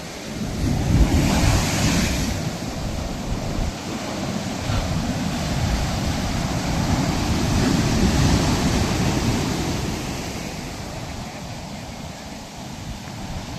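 Ocean waves breaking and washing up a sandy shore, surging twice: once about a second in and again, more slowly, around eight seconds.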